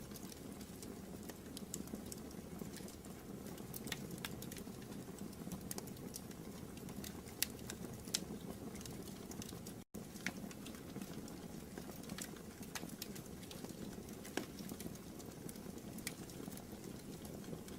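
Wood fire burning in a fireplace: irregular sharp crackles and pops over a steady low rumble of the flames, with a split-second gap about ten seconds in.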